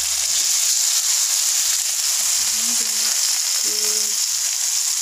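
Tofu cubes and a sautéed base of garlic, tomato and chili sizzling in hot oil in a wok: a steady frying hiss.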